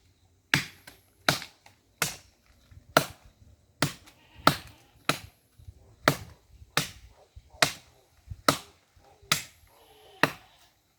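Chopping blows of a blade biting into wood, a java plum (azeitona) tree being cut for firewood: thirteen sharp strikes at a steady pace, a little more than one a second.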